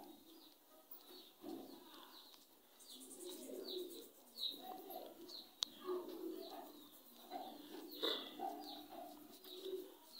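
Birds calling: low, rounded cooing calls and short high chirps, repeated irregularly throughout.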